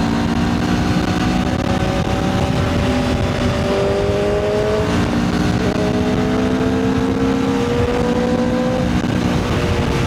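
Motorcycle engine pulling under load while riding, its pitch climbing slowly and dropping back a few times as the rider changes gear, under steady wind rush on the microphone.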